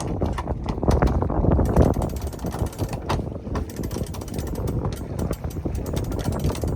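Wind rumbling on the microphone aboard a sailboat under way, with a run of sharp clicks and rattles throughout.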